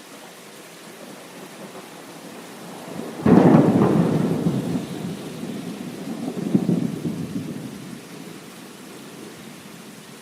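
Steady rain with a sudden thunderclap about three seconds in. The thunder rumbles on, swells again a few seconds later, then fades back into the rain.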